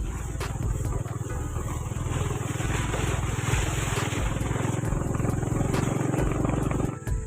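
Motorcycle engine running as the bike rides along, with a steady, rapid low rumble of firing pulses.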